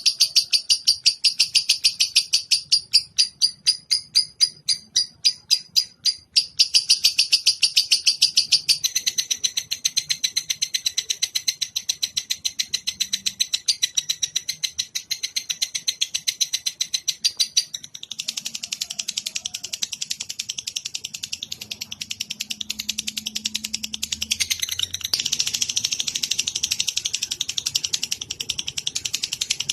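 Songbird-training (masteran) recording of high-pitched, rapid chattering trills, with pulses repeated many times a second. The trill changes abruptly about a third of the way in, again just past halfway, and once more near the end.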